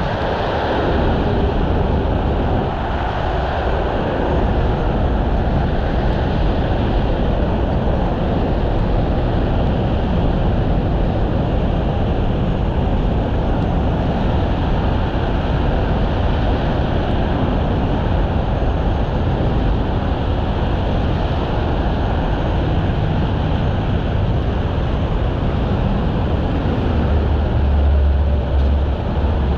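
Heavy diesel engine of a rotator tow truck running steadily under a continuous rushing noise, working its winches during a lift; the low rumble swells louder about two seconds before the end.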